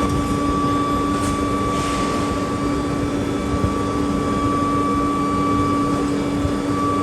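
Steady factory machinery running, a continuous mechanical noise with a constant low hum and a higher steady whine.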